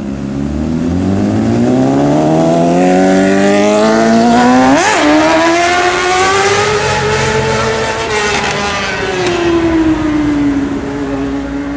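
Sport motorcycle engine accelerating hard. Its pitch rises steadily for about five seconds, with one brief sharp blip, holds high, then falls away near the end.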